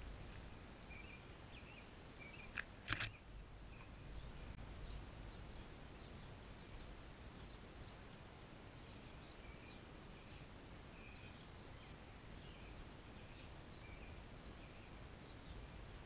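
Quiet outdoor ambience with small birds giving short, faint chirps now and then over a low background rumble. About three seconds in, two or three sharp knocks stand out as the loudest sounds.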